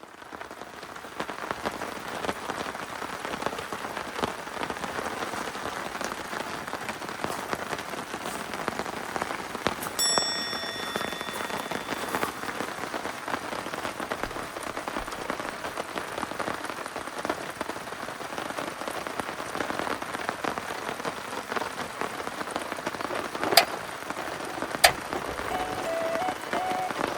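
Heavy rain falling steadily, a dense patter of drops. A short ringing tone comes about ten seconds in, and two sharp, louder knocks come close together near the end.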